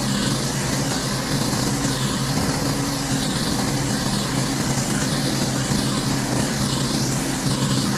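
Gas-engine pressure washer running steadily, with the loud hiss of its high-pressure water spray.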